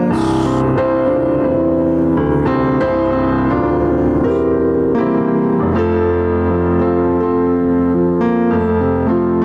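Electric piano or keyboard playing slow, sustained chords, with new notes and chords struck every second or so.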